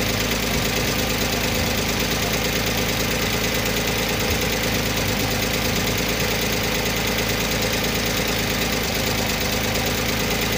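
Multicab's small petrol engine idling steadily, now running after its hard starting was cured by cleaning the distributor cap.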